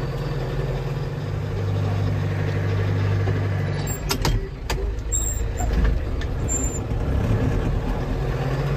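John Deere 6300 tractor's four-cylinder diesel engine running steadily as the tractor is driven slowly. The engine note drops a little after about a second and comes back up near the end, with a few sharp clicks about four to five seconds in.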